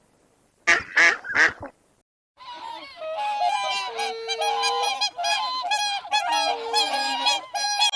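Three loud calls from a goose, then after a short break a flock of domestic geese honking with many overlapping calls.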